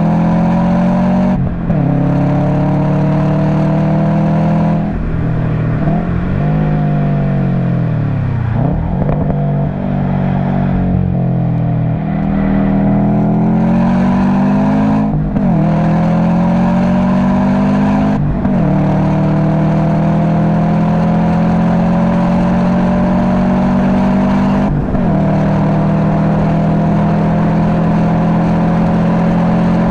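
Subaru WRX STI's turbocharged flat-four through an Invidia Q300 exhaust, driven hard on track. The engine note climbs steadily and drops sharply at each gear change, about five times. Around a quarter of the way in it falls away as the car slows, then builds again.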